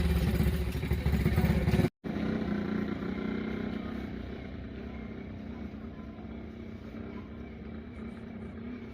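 A small engine running: loud and fast-pulsing for the first two seconds, cut off suddenly, then a steadier, quieter engine hum.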